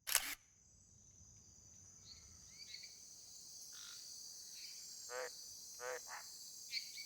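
Wildlife ambience effect: a steady high cricket chirring fades in, with scattered short bird chirps and three short frog croaks about five to six seconds in. A short sharp click opens it.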